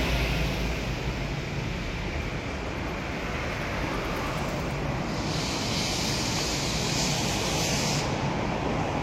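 Steady running noise of a moving train, a low rumble under a wide hiss. A brighter, higher hiss joins for about three seconds past the middle.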